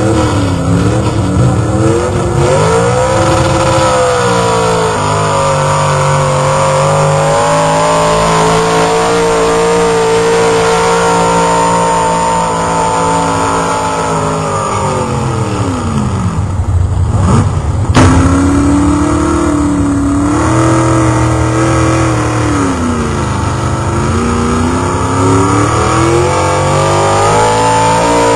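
A pulling-truck engine running hard at high revs under load, its pitch wavering as it drags the weight sled. About sixteen seconds in the revs fall away steeply, a sharp crack follows a second or two later, and the engine revs back up.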